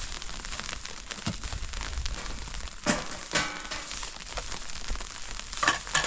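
Steady crackling noise made of many small clicks, with a few short louder sounds about three seconds in and again near the end.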